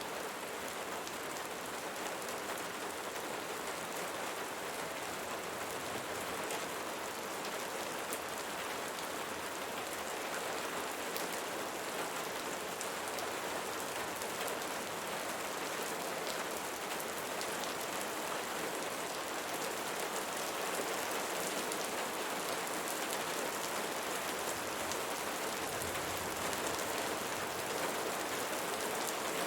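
Steady rain falling and pattering on a surface, an even hiss of many small drops.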